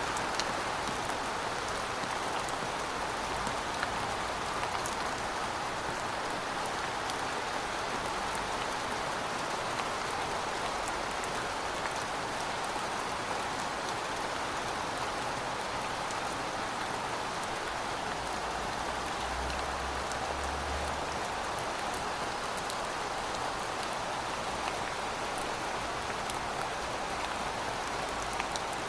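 Steady rain falling on a surface, an even hiss with scattered individual drops pattering.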